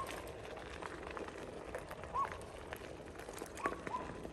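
Bicycle riding along, with scattered ticks and clicks and a few short high chirps.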